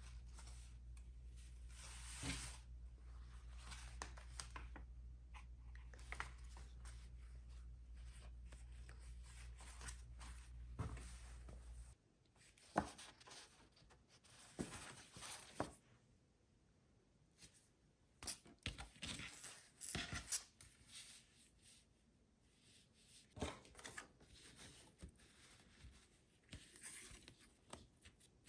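Paper being handled, torn and cut during junk-journal crafting: scattered rustles, rips and light taps on the desk. A low steady hum runs under it and cuts off about a third of the way in.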